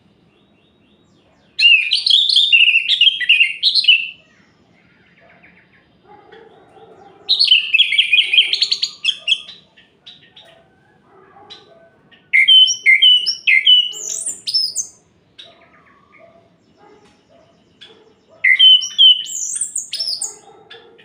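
Orange-headed thrush singing: four loud, rich phrases of about two seconds each, packed with quick varied whistled notes and short rising notes, separated by pauses of a few seconds. This is the song kept birds are played to spur them into singing.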